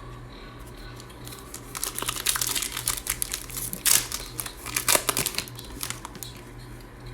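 Plastic trading-card pack wrapper being torn open and crinkled in the hands: a run of sharp crackling that starts about two seconds in, peaks around the middle and fades out about a second before the end. A steady low hum runs underneath.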